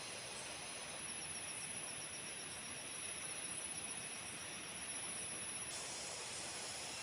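Steady hiss of rain in forest, with insects trilling and chirping high above it; one fast trill cuts off suddenly near the end.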